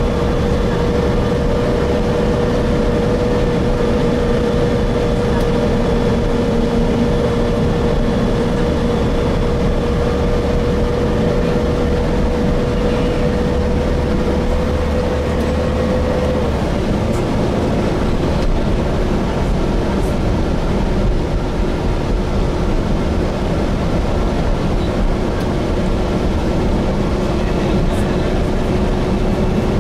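Gillig Phantom transit bus with a Voith transmission heard from inside while under way: steady loud rumble with a whining tone that sinks slightly, stops about halfway through and gives way to a lower whine.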